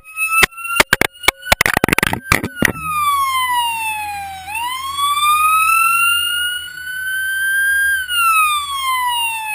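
Emergency siren wailing in slow sweeps, falling, rising and falling again, typical of a police unit responding to a motorcycle crash. A rapid run of sharp clicks and knocks covers the first few seconds.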